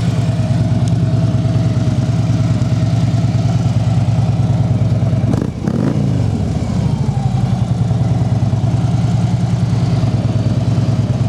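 2013 Harley-Davidson Street Glide's 103 cubic-inch V-twin idling through aftermarket mufflers, with one brief rev about halfway through that rises in pitch and falls back to idle.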